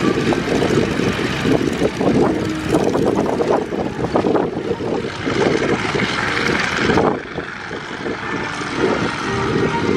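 Several vintage biplanes' radial engines running at idle on the ground, propellers turning, a rough, rapid-firing sound. The level drops somewhat about seven seconds in.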